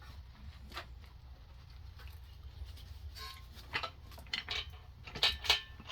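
Light metallic clinks and taps of tools and engine parts being handled while a Briggs & Stratton engine's crankcase is taken apart, scattered and coming more often in the second half, over a low steady hum.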